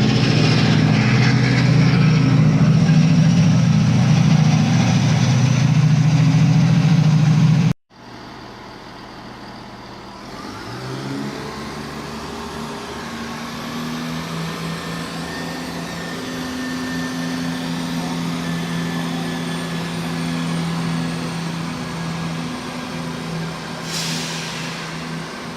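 Class 68 diesel locomotive's V16 engine running loud and steady at close range. After a sudden cut, quieter diesel multiple-unit engines build up and then run steadily, with a brief hiss near the end.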